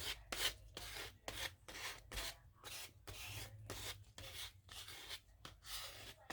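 Paper being rubbed by hand in quick, uneven strokes, several a second.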